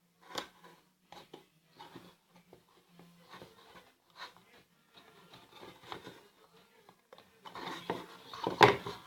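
Handling noise from craft-kit parts and string: small scattered taps, clicks and rustles, growing busier and louder near the end, over a faint steady hum.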